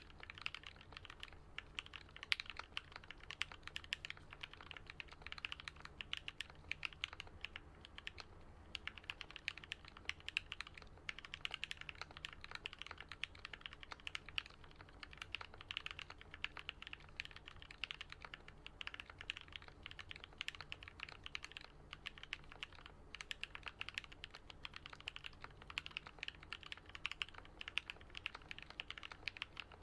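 Fast, continuous typing on a custom Alice-layout mechanical keyboard (Switch Couture Alice) with lubed and filmed Gat Yellow linear switches and Artifact Bloom keycaps: a steady stream of deep key clacks, with short pauses now and then.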